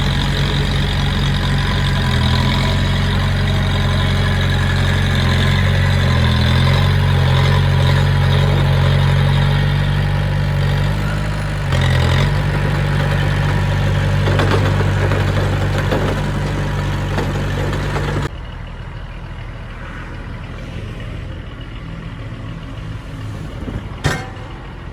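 Heavy machinery diesel engine running steadily with a deep, even drone. About three quarters of the way through the sound drops suddenly to a quieter engine hum, and a single sharp click comes near the end.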